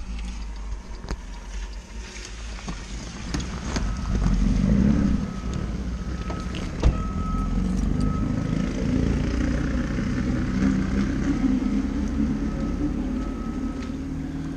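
Garbage truck engine running with its reversing alarm beeping over and over as it backs up. The engine is louder from about four seconds in, and there is a single sharp knock about seven seconds in.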